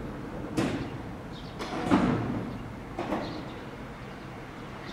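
Electric commuter train at a station platform: a few heavy clunks, about a second apart, over a steady background rumble.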